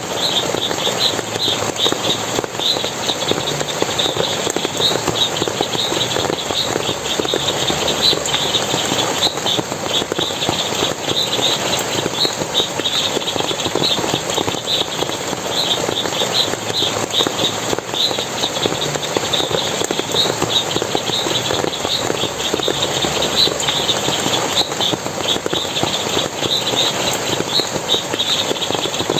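Water splashing steadily in a forest, with short high chirps repeating in quick, uneven succession over it.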